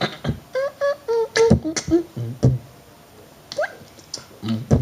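Vocal beatboxing: quick mouth percussion of pops and clicks mixed with short pitched vocal sounds, with a pause of about a second past the middle.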